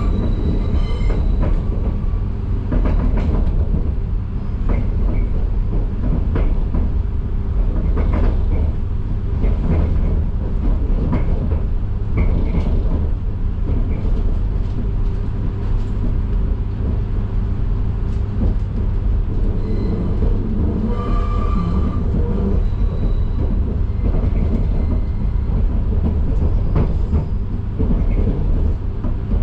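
Passenger train running at speed: a steady, heavy rumble of wheels on track with repeated clicks from the rails and a brief squeal about two-thirds of the way through.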